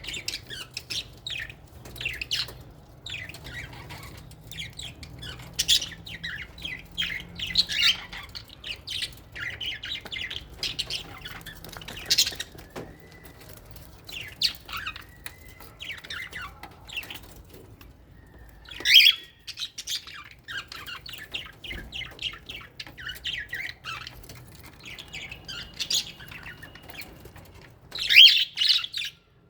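A flock of aviary lovebirds and budgerigars chattering with a steady stream of chirps and squawks, with a few louder shrill squawks about two-thirds of the way in and near the end.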